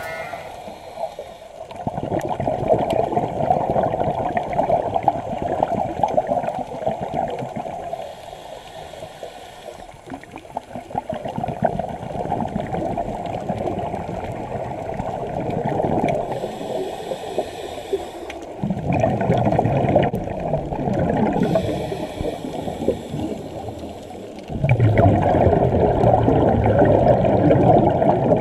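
Scuba diver breathing through a regulator underwater: several long bursts of exhaled bubbles, a few seconds each, alternating with the quieter hiss of each inhalation.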